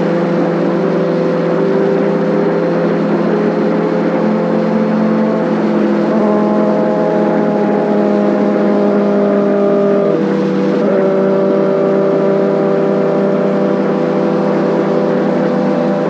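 Kawasaki Ninja ZX6R inline-four engine and exhaust running under way, a steady high-pitched note held at fairly constant revs, with a brief dip and change in pitch about ten seconds in.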